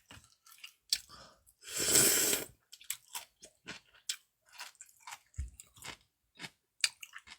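Close-up mouth sounds of someone eating noodles and dumplings: a noisy, slurp-like burst lasting about a second, starting about two seconds in, then a run of small, quiet chewing clicks.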